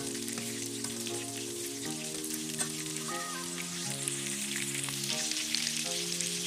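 Chicken meatballs shallow-frying in hot oil in a pan: a steady sizzle thick with small crackling pops. Background music plays a simple melody underneath.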